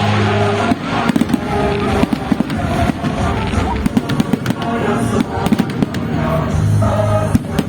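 Fireworks display: a rapid, uneven run of aerial shell bangs and crackles, several a second, with music playing alongside.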